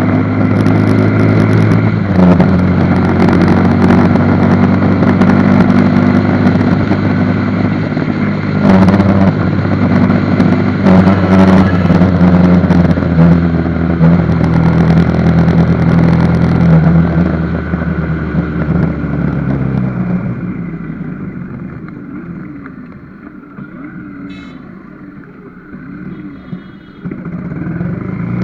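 Motorcycle engine running during a ride, steady and loud. About twenty seconds in it eases off and grows quieter for several seconds, then picks up again near the end.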